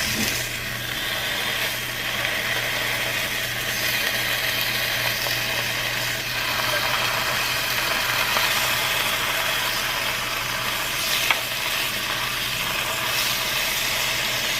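Bacon strips sizzling and spitting in a frying pan, steady throughout, over a constant low machine hum.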